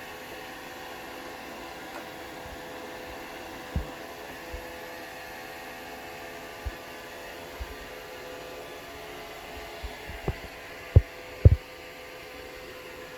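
Roomba robot vacuum running with a steady motor hum while it keeps failing to find its dock. Several short, dull knocks come from about four seconds in, the loudest two close together near the end.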